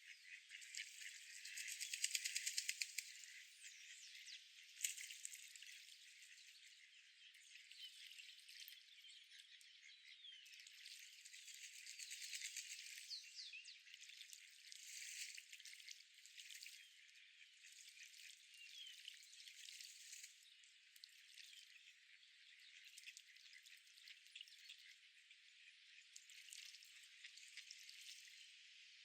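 Faint outdoor park ambience of high-pitched chirps and rattling calls. It swells about two seconds in, briefly near five seconds, and again around twelve and fifteen seconds.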